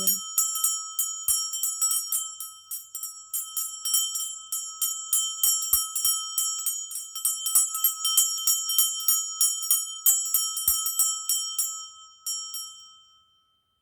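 A small bell rung rapidly and continuously as an energy-clearing sound, its clear high tone held by the quick strikes. The ringing stops near the end and the tone fades away.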